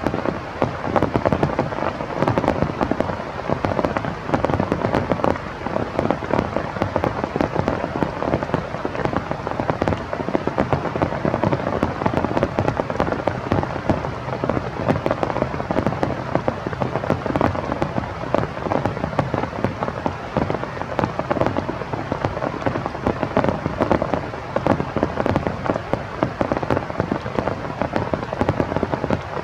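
Rain falling steadily and densely, with many sharp individual drop hits.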